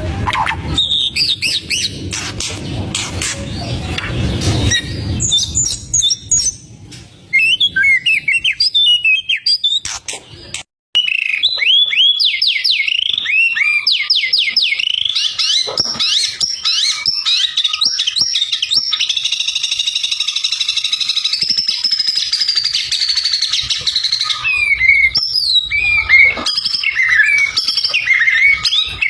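White-rumped shama (murai batu) singing loudly in full song: a fast, varied string of whistles, trills and down-slurred notes, with a low rumble under the first few seconds. The song breaks off briefly about eleven seconds in, then resumes with rapid repeated falling notes and a long run of high chatter.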